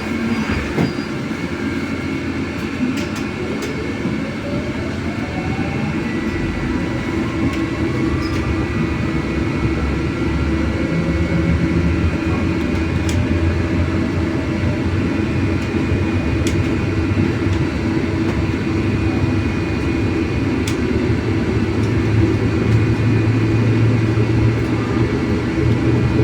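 MAZ-303E10 electric bus pulling away and gaining speed, heard from inside the cabin: the electric drive's whine rises steadily in pitch over several seconds, over a running rumble of road and body noise that grows louder as the bus speeds up.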